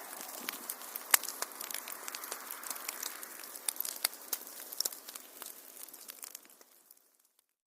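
Wood fire crackling, with many sharp pops over a soft steady hiss; it fades out to silence about seven seconds in.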